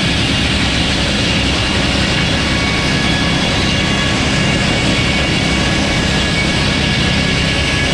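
Sawmill running and sawing a log, a steady machine noise with a constant engine drone and faint steady whining tones over it, no pauses.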